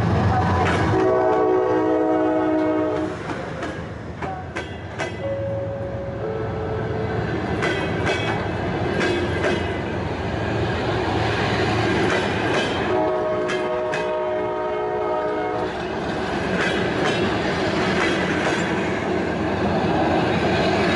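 Passenger train rolling slowly past: the TE33A diesel locomotive's engine rumbles by in the first second, then the coaches' wheels click over the rail joints. A train horn chord sounds twice, for about two seconds a second in and again for a couple of seconds about thirteen seconds in.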